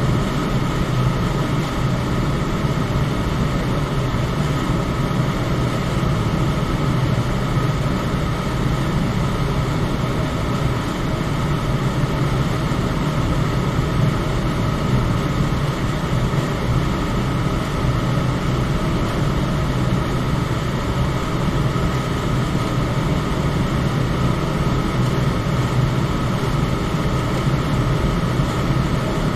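Electric fan running steadily: an even rush of air with a low hum and a fainter high whine, unchanging throughout.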